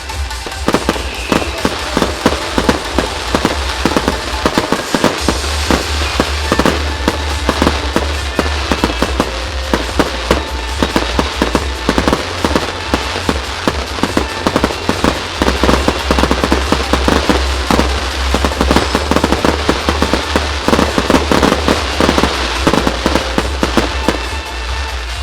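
Rapid fireworks bursts, many bangs and crackles a second in a dense barrage, over accompanying music.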